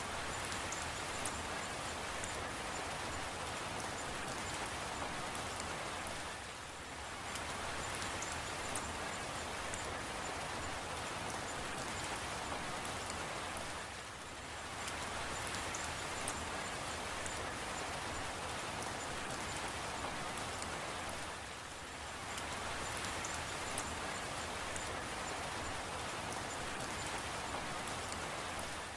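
Steady rain falling, an even hiss with faint scattered drop ticks. It eases briefly about every seven and a half seconds.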